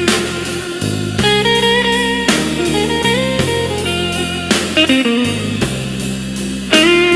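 Slow Chicago blues in F minor played on electric guitar with bass and drums, no vocals yet.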